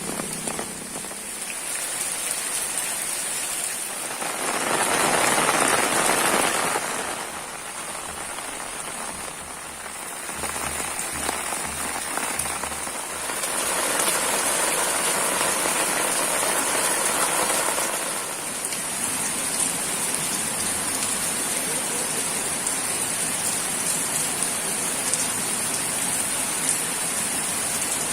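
Steady rain falling. It grows louder about five seconds in and again for a few seconds in the middle.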